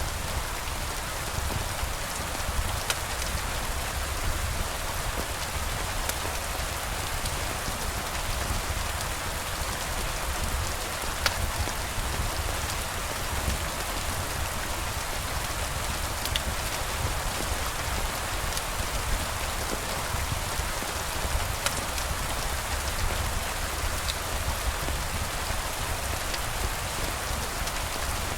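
Steady rain falling, a dense even hiss with a low rumble beneath it and a few faint sharp ticks scattered through.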